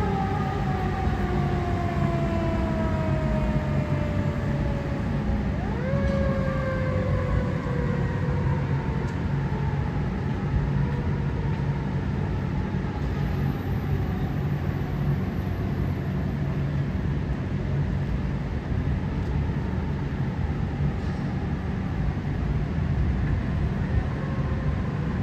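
Fire engine siren winding down in a slow falling pitch, rising briefly again about six seconds in, then sliding down and fading away. The engine's steady low rumble continues underneath.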